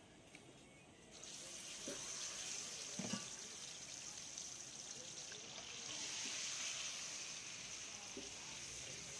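Hot oil on a large flat iron griddle starts sizzling about a second in as masala-coated pieces are tipped into it, then keeps up a steady hiss while they fry. A couple of short knocks sound a second or two after the sizzle begins.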